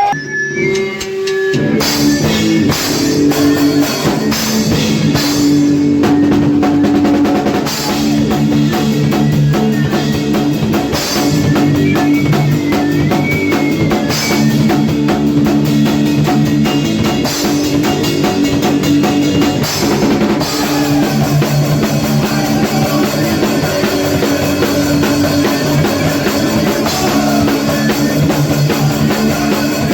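Hardcore punk band playing live with an 80s-style riff: distorted electric guitar and drum kit, with a held guitar note at first and the full band coming in about a second and a half in.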